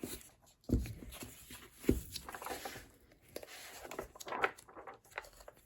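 Pages of an old hardback book being flipped and rustled, with a couple of soft thumps from the book and paper being handled.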